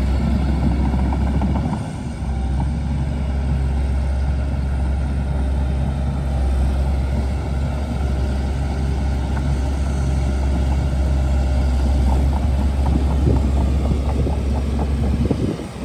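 Shantui DH17C2 bulldozer's diesel engine running steadily under load, a deep hum with irregular crackling and clatter over it. The sound dips briefly about two seconds in and again near the end.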